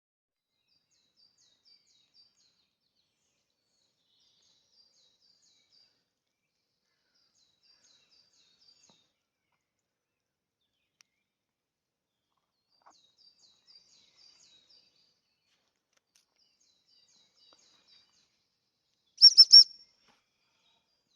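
Faint songbird singing short, high, repeated phrases every few seconds. About two seconds before the end comes a sudden loud, high chirp of three quick notes.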